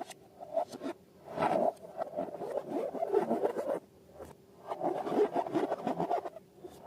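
Rubbing and scraping from balloons and slime materials being handled, in two long bursts with brief pauses between.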